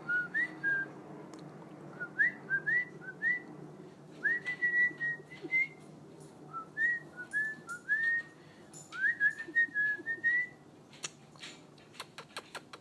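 Cockatiel whistling a string of short, upward-sliding notes in several phrases with brief pauses between them, stopping about ten seconds in. A quick run of clicks follows near the end.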